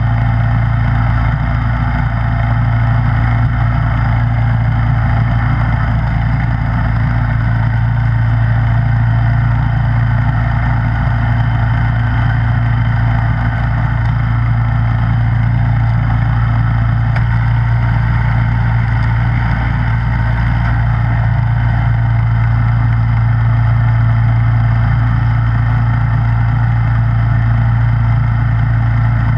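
Snowblower engine running steadily at a constant speed, with an even drone and no change in pitch.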